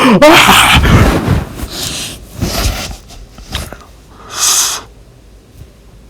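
Cartoon energy-blast sound effect: a loud rushing noise that fades over a few seconds in uneven surges, with a short hiss burst about four and a half seconds in.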